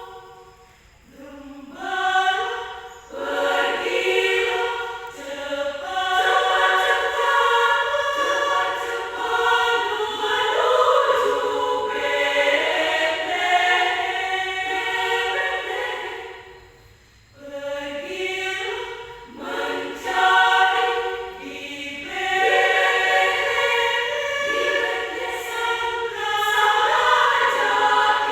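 Adult women's choir singing in parts, in long phrases with short breaks about a second in and again about halfway through.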